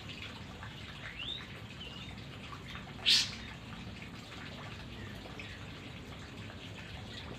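White-rumped shama giving a couple of short rising chirps, then one sharp, loud high call about three seconds in, over a steady watery background hiss.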